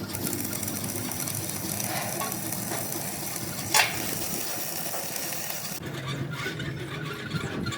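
Steady sizzling crackle of welding on steel in a fabrication shop, with one sharp metallic knock about four seconds in. The sizzle stops a little before the end, leaving the shop's low hum.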